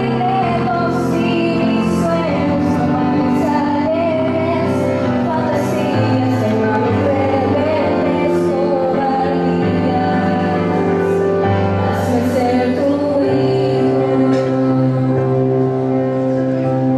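A devotional song: a woman's voice singing a slow melody over instrumental accompaniment with steady held bass notes and regular light rhythmic strokes.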